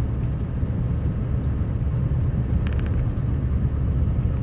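Scania R560 truck's V8 diesel engine running with a steady low rumble while it plows heavy snow, with a brief cluster of clicks about two and a half seconds in.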